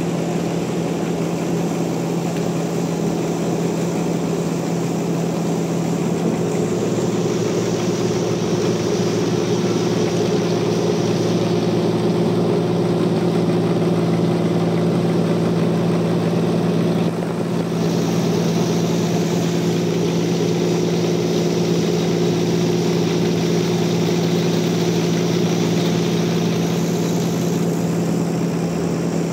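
Sawmill machinery running steadily with a strong, even hum. A higher hiss joins a few seconds in and cuts out for a moment around the middle.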